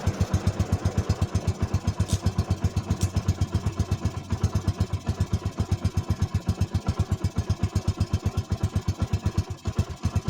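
Vehicle engine idling with an even, fast chugging beat, running smoothly.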